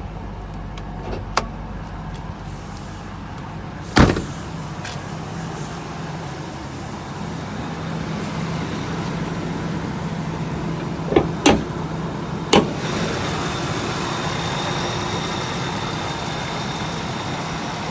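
Supercharged V8 of a 2000 Ford F-150 SVT Lightning idling steadily. Several sharp clunks break in: a loud one about four seconds in and a cluster of three around eleven to twelve seconds, from a door and the hood being worked. After them the idle sounds fuller, with a thin high whine over it.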